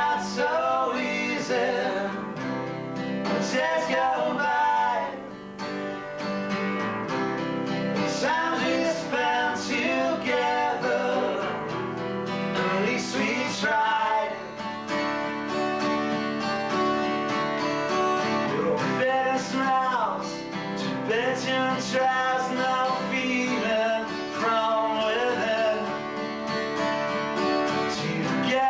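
Acoustic guitar strummed under a voice singing long, wavering notes without clear words, a live song rehearsal picked up by a basic VHS camcorder microphone.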